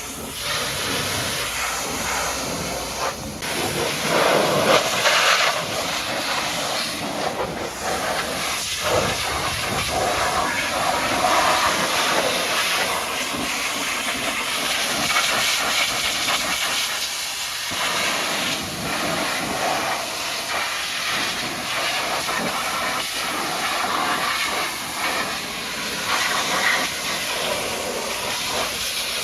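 High-pressure water jet from a pressure washer spraying onto a mud-caked dump truck: a continuous hiss that swells and dips as the spray moves.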